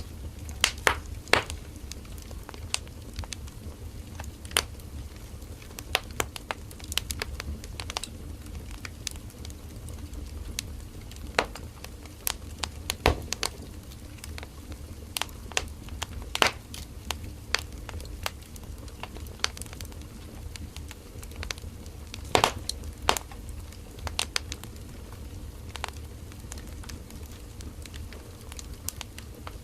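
Firewood burning in a campfire: irregular crackling with sharp snaps and pops, a few of them louder, over a steady low rumble.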